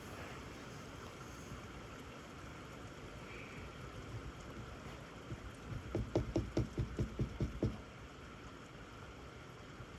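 Heavy rain falling steadily. About six seconds in, a quick run of about ten thumps, some five a second, stands out over the rain.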